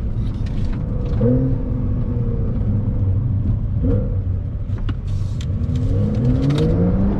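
Porsche 911 Carrera 4 GTS's twin-turbo flat-six engine pulling under acceleration over a steady low rumble. Its pitch shifts twice, then climbs steadily from about six seconds in as the revs rise.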